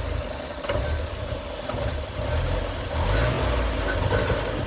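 1988 Porsche 944's four-cylinder engine running roughly at idle. It falters briefly about half a second in, then picks up again and grows louder from about three seconds in. This is a stalling-prone idle, which the owner suspects comes from the air flow meter or the throttle position sensor.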